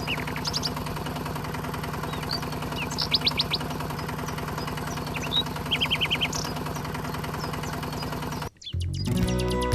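Small motor of a DIY mini tractor running with a steady hum, while a bird gives three short series of quick chirps. About eight and a half seconds in, the hum cuts off abruptly and music starts.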